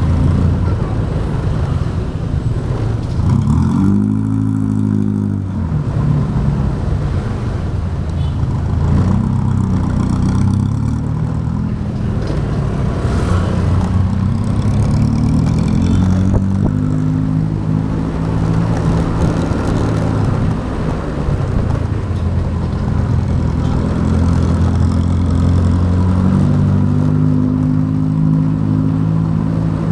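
Motorbike engine running on the move, heard from the rider's seat, its pitch rising and falling several times as it speeds up and eases off.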